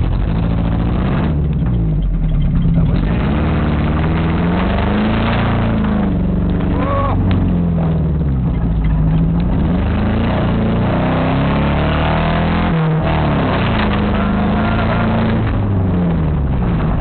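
An engine running under load, its speed rising and falling again and again in waves every few seconds.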